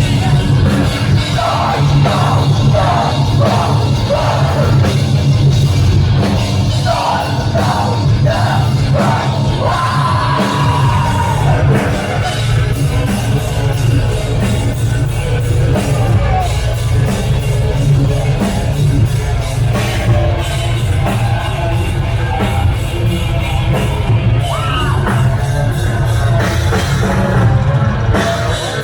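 A heavy metal band playing live and loud, with yelled, screamed vocals over a dense, heavy low end.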